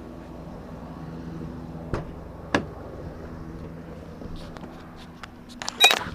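Two sharp clicks about two seconds in and a cluster of louder clicks with a short high chime near the end, typical of a truck door and cab being handled, over a steady low hum.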